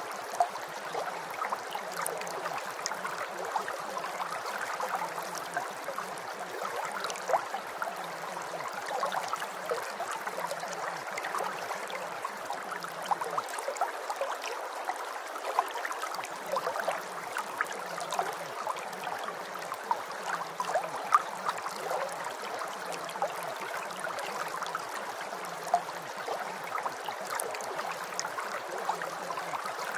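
Steady rain: a dense patter of drops, with a few louder single drops standing out now and then.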